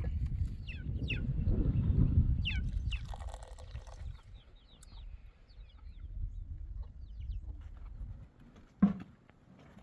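Birds chirping in short falling chirps, over a low rumble that fades after the first few seconds, with a single knock near the end.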